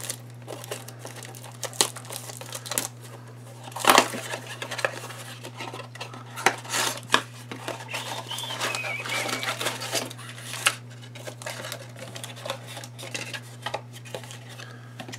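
Plastic wrapping of a trading-card box being crinkled and torn open by hand, a run of irregular sharp crackles, loudest about four seconds in. A steady low hum lies underneath.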